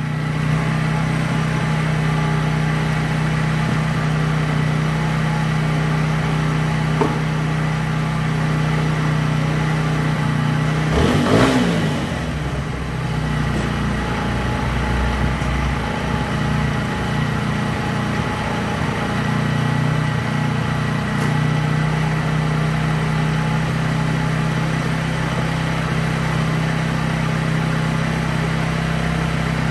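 TVS Apache RTR 160 4V single-cylinder motorcycle engine idling steadily while its fuel setting is adjusted, with one brief throttle blip about eleven seconds in.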